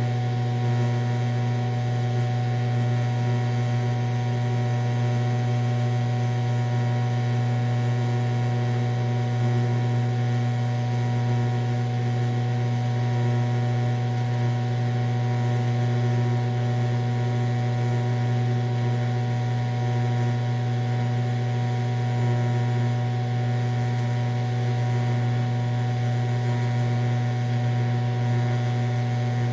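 Steady electrical hum of a TIG welding machine, unchanging throughout, with a faint hiss over it.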